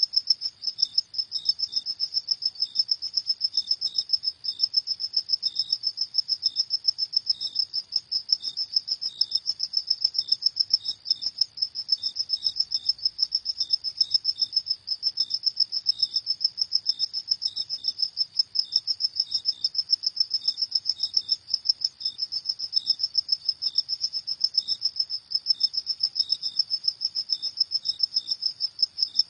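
Crickets chirping at night in a rapid, unbroken pulsing trill, high-pitched, with a fainter second chirping pattern slightly lower in pitch.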